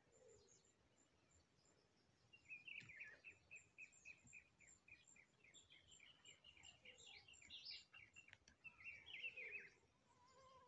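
A bird singing faintly: a long run of short, quick high notes, about four a second, ending in a brief, busier phrase near the end.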